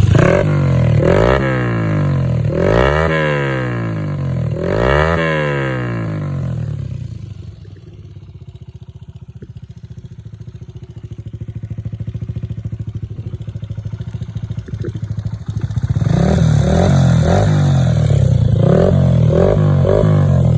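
Honda Ape 100 single-cylinder four-stroke engine with a Takegawa aftermarket muffler, revved three times in quick blips and then settling to a quieter idle. About sixteen seconds in it runs louder again at a steady, faster speed.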